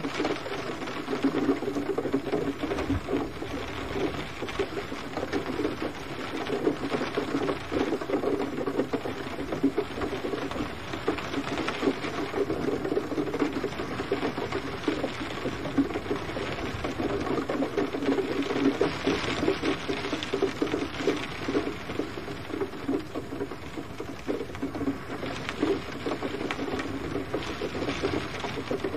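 Gentle, steady rain: a dense, even patter of many small drops with no thunder.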